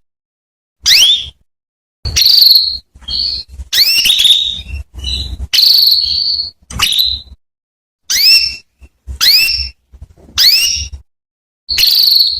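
Female canary calling: about ten short, rising chirps with short silent gaps between them, several ending in a held whistle. These are the contact calls used as a lure to set male canaries singing.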